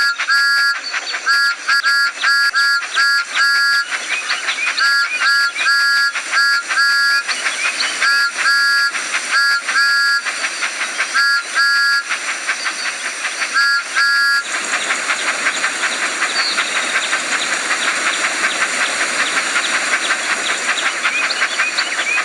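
Cartoon steam-engine sound effects from a toy-train game: short chord-like whistle toots repeated in quick groups, then, about 14 seconds in, a steady steam hiss with rapid chuffing ticks as the engine runs.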